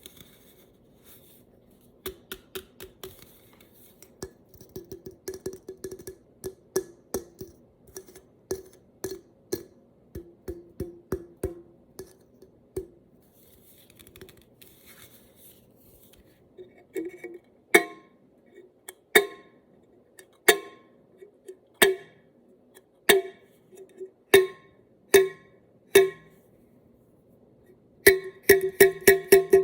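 Tapping on an aluminium drink can, each tap ringing briefly with the can's hollow tone. Quick, scattered taps come first; from about halfway, single louder taps fall about every second and a half, ending in a fast flurry of taps.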